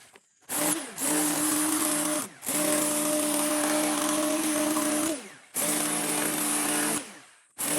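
An electric power tool's motor is run in short bursts, switched on and off about four times: a brief blip, then runs of roughly one to three seconds, each winding down with falling pitch before starting again near the end.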